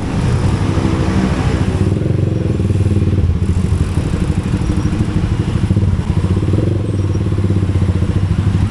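A motorcycle engine runs steadily with a fast, even low pulse.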